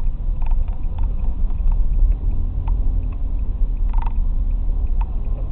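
Honda VTX1800 V-twin cruiser motorcycle on the move: a steady low rumble, with a few faint short ticks.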